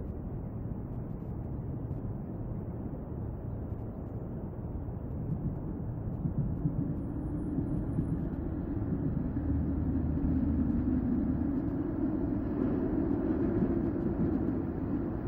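Low, steady rumble of outdoor background noise, swelling about five seconds in and easing near the end.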